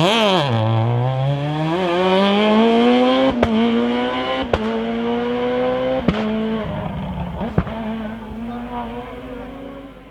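Rally car engine dipping in pitch, then pulling hard and climbing, with about five sharp cracks spaced a second or more apart. It fades steadily into the distance toward the end.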